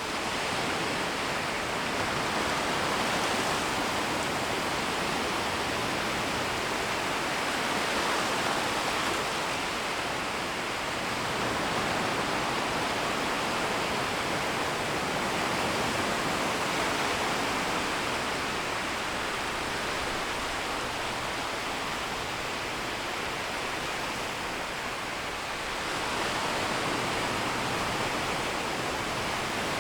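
Small, gentle waves washing in and retreating over a shallow shoreline: a steady rush of surf that swells and eases slowly every several seconds.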